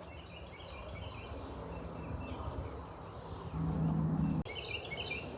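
Insects trilling outdoors: a steady high-pitched whine with short chirps repeating over it. About three and a half seconds in, a louder low hum comes in and stops abruptly about a second later.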